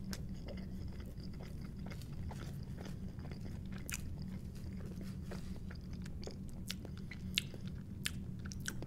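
Close-up chewing of a bite of thin, crisp-crusted pepperoni pizza: soft crunching and small wet mouth clicks over a steady low hum.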